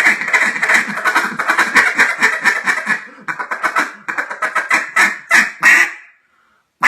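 JJ Lares A5 single-reed duck call blown in a rapid feed chatter, breaking off briefly about three seconds in, then chattering again and slowing into a few separate quacks before stopping about six seconds in; one more quack starts right at the end.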